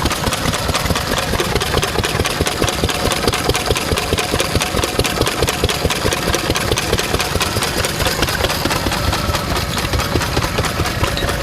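A 1952 Lister A single-cylinder stationary engine, the reverse-rotation type with big flywheels, running steadily at idle in an even, continuous rhythm.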